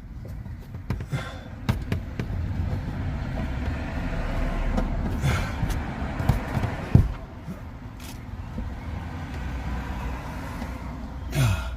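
Handling noises while fitting a diesel heater's pipes: scattered knocks and rubbing over a low rumble, with one sharper knock about seven seconds in.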